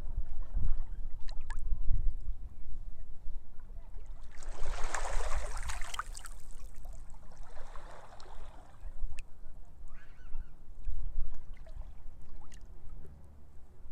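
Sea waves washing on a beach, with wind rumbling on the microphone. A wave washes in with a loud hiss about four and a half seconds in and lasts a couple of seconds, and a weaker wash follows a few seconds later.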